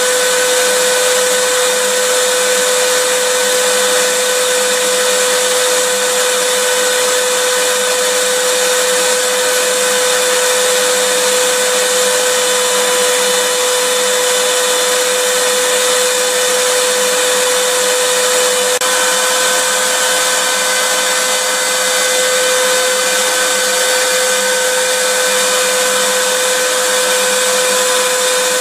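Vacuum cleaner motor running steadily, a constant rushing noise with a steady whine over it; the whine shifts slightly in pitch about two-thirds of the way through.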